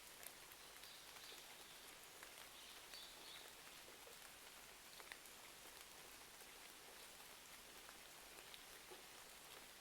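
Faint, steady rain hiss with scattered small crackles and ticks, from a rain and crackling-fireplace ambience.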